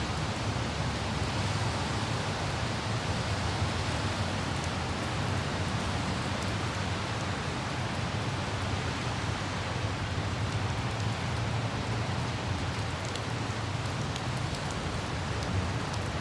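Steady light rain with a few faint droplet ticks, over the low, even rumble of a car driving.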